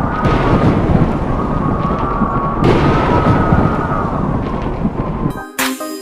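Deep rumbling noise with a faint tone rising and falling over it twice. It cuts off abruptly about five and a half seconds in, when upbeat music starts.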